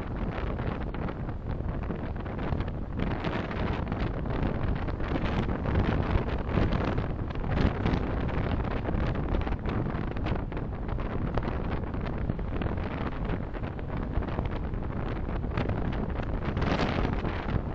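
Steady road and wind noise of a car driving, heard through a dashcam microphone, with a short swell of hiss near the end.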